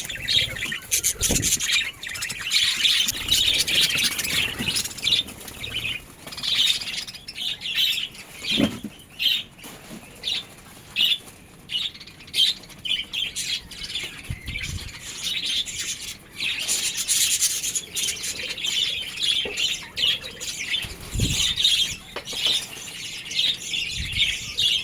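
Budgerigars chattering and chirping in a steady run of quick high notes, with a few short low thumps and wing flutters scattered through.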